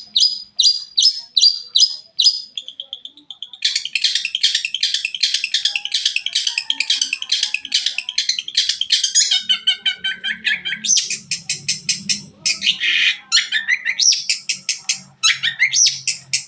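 Long-tailed shrike (cendet) singing a loud, fast, varied song of rapid repeated high notes, switching to a new phrase every few seconds: a song stitched together from mimicked calls of other birds.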